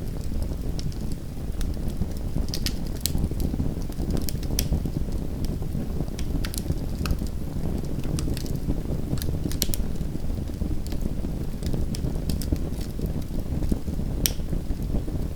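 Small wood fire burning in a home fireplace: a steady low rumble of flames with irregular sharp crackles and pops, several every second or two.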